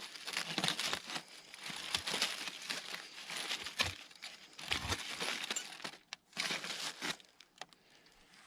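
Irregular crinkling and rustling close to the microphone, in uneven bursts with small clicks, fading out about seven seconds in.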